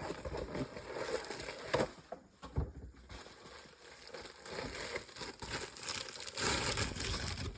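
Packaging of a new transmission part crinkling and rustling as it is unwrapped, in irregular spells with a quieter gap about two seconds in.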